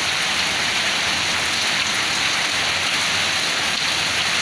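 Heavy downpour of rain and hail falling steadily on surfaces, a dense, even hiss.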